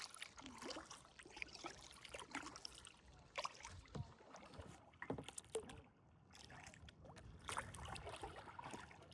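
Kayak paddling: faint, irregular splashes and drips as the paddle blades dip into and lift out of still water.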